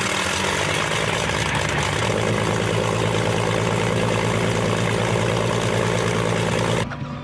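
Rolls-Royce Griffin 36.7-litre V12 aero engine running, a loud steady drone with a low, even engine note. About two seconds in, the note fills out lower and grows a little louder, and near the end it cuts off suddenly.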